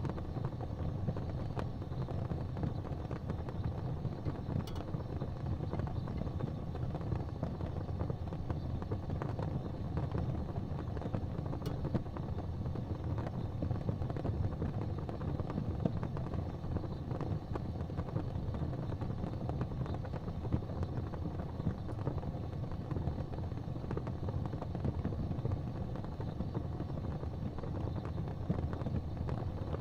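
Fire burning in a fireplace: a steady low rumble of flames with a few faint crackles.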